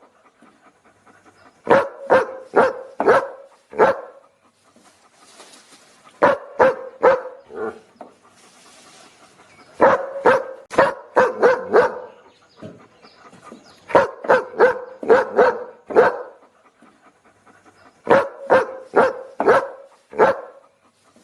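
A dog barking in quick bursts of four to six barks, with a new burst roughly every four seconds and brief pauses between, repeating as a loop.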